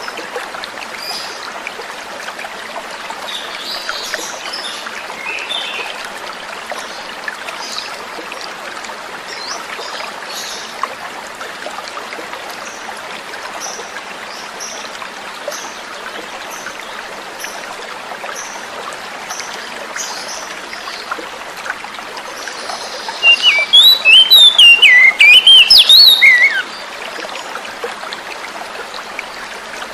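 Flowing water trickling steadily under faint, scattered bird chirps. About three quarters of the way in, a loud burst of rapid, varied song from an oriental magpie-robin (kacer) lasts about three seconds.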